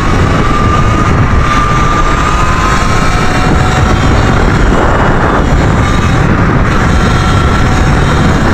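Electric dirt bike's motor whining while riding, its pitch climbing a little in the first second or two and then holding, over a heavy low wind rumble on the microphone.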